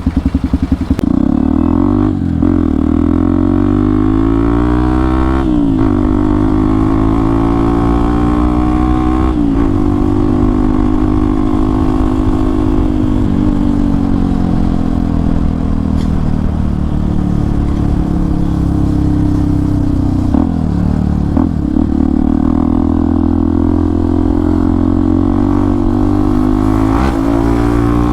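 Hero XPulse 200 4V's single-cylinder engine through an aftermarket Akrapovic exhaust, pulling away and accelerating. Its pitch climbs and then drops at each upshift, several times over.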